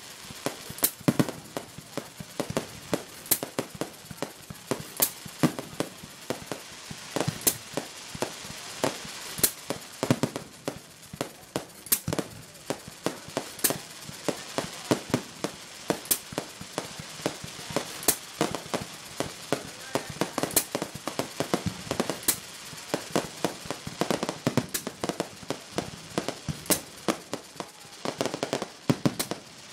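Fireworks display: aerial shells bursting in a steady run, with sharp bangs every second or two over continuous crackling.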